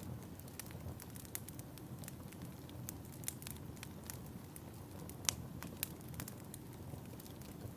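Wood fire crackling: a steady low rumble under frequent sharp pops and snaps, the loudest pop about five seconds in.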